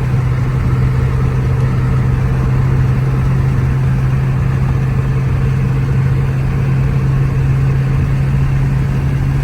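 Chrysler 300's Hemi V8 and tyres heard from inside the car at a steady cruising speed: an even low engine drone over road noise, with no change in pitch.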